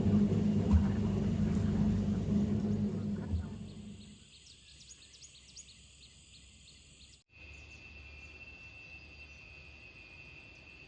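A motor running steadily for the first few seconds, then fading away, leaving insects droning on one high steady note. After a sudden cut about seven seconds in, a steady insect drone continues at a lower pitch.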